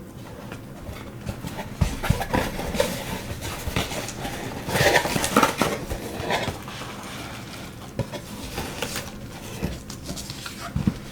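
A package being opened and handled by hand: rustling of wrapping with scattered light clicks and taps of small items, the rustling loudest about five seconds in.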